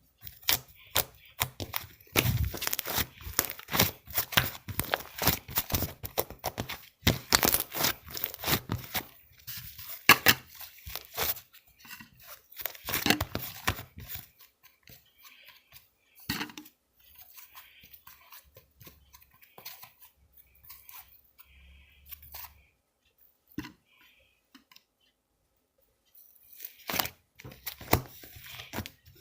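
Slime being squished and stretched by hand: a dense run of sticky clicks and crackles, thinning to scattered pops with pauses about halfway through, then busy again near the end.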